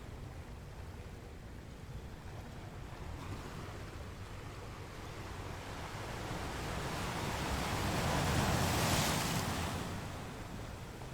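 Ocean surf washing on a shore. One wave swells, breaks about eight seconds in, and then fades back to the steady wash.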